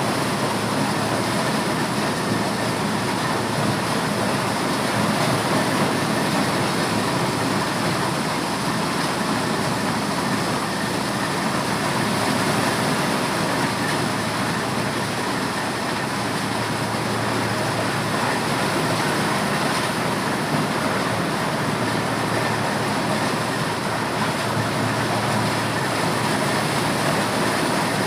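Corn sheller (maize threshing machine) running steadily: a loud, even mechanical noise with no pauses.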